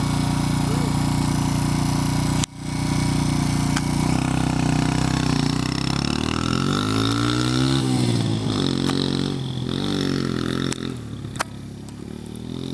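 Dirt bike engine running and revving, its pitch rising and falling several times, then fading off toward the end.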